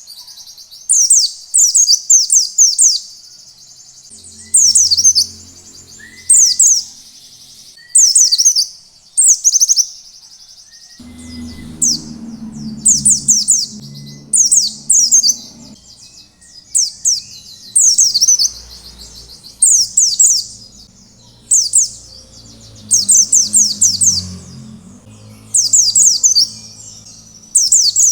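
White-eye (pleci) singing in short, repeated bursts of fast, high notes that slide downward. Each burst lasts about a second, and a new one comes every second or two. A faint low hum sits underneath for a few seconds in the middle.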